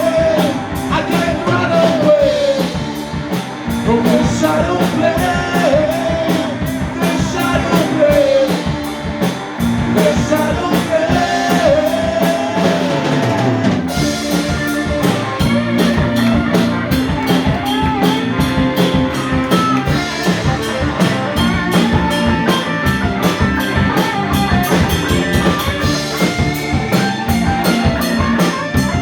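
Live rock band playing an instrumental passage. Drum kit keeps a steady cymbal beat over bass, keyboards and guitar, and a lead line bends up and down in pitch through the first half.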